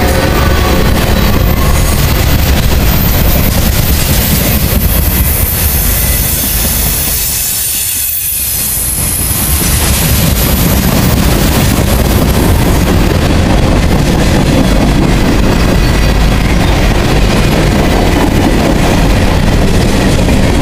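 Freight train's cars rolling past on steel wheels and rail, a loud continuous rumble and clatter. A high-pitched wheel squeal rides over it for several seconds in the first half, and the rumble dips briefly about eight seconds in.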